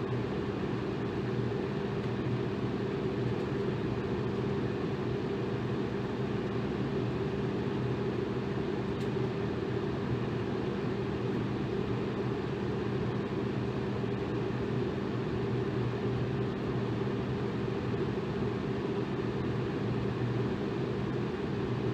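Electric fan running steadily: an even rush of air with a low, steady motor hum underneath.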